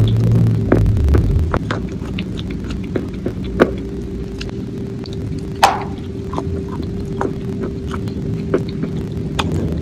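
Close-miked mouth sounds of a person chewing food: scattered wet clicks and smacks, with a sharper one about six seconds in. A steady low hum runs underneath, with a low rumble in the first second.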